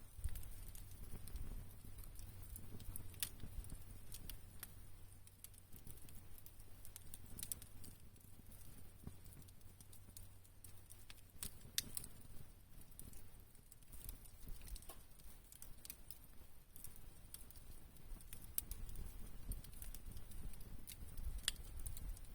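Wood campfire crackling, with sharp pops at irregular intervals over a low steady rumble.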